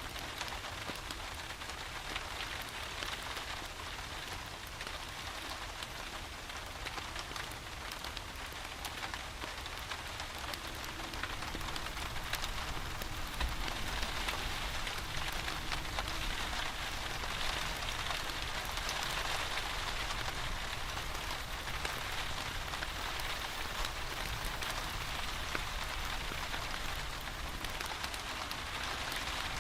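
Steady rain falling, with a wood fire crackling in a fireplace mixed in; it grows a little louder about twelve seconds in.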